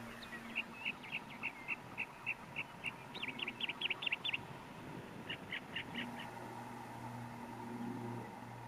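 A bird calling: a run of short clear notes at about four a second, then a quicker burst of higher notes, and a few more notes a second later. A faint low hum returns near the end.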